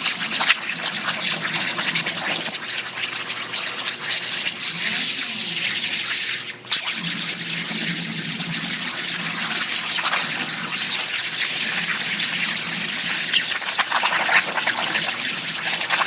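Hypertherm plasma cutter on a BurnTables CNC table cutting metal plate under water: a loud, steady hissing rush of the arc and its air blowing through the water. It stops for a moment about six and a half seconds in, then starts again.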